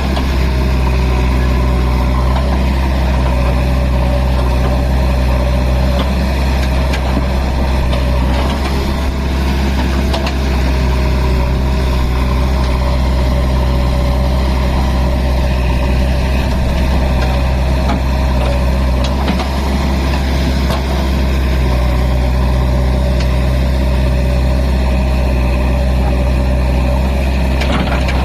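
Tractor's diesel engine running steadily at an even speed, a loud low hum that holds without revving up or down.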